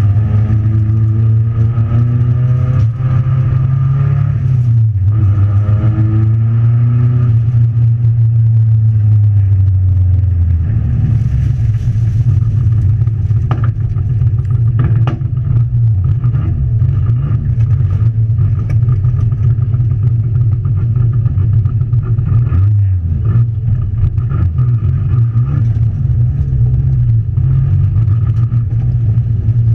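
Race car's engine heard inside its stripped, roll-caged cabin, driven hard. The revs climb in long rising sweeps through the gears over the first ten seconds, then stay high with brief lifts, with clicks and rattles from the car.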